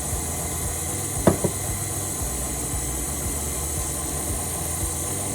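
Electric mixer running steadily at low speed, beating royal icing while warm water is added a little at a time. Two short clicks about a second in.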